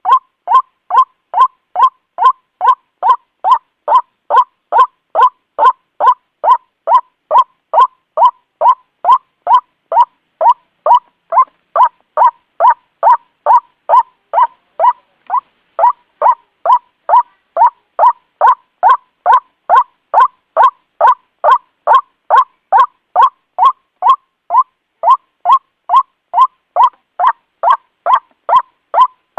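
White-breasted waterhen calling in an unbroken run of short, loud notes, evenly spaced at about two a second: a recorded lure call for trapping the bird.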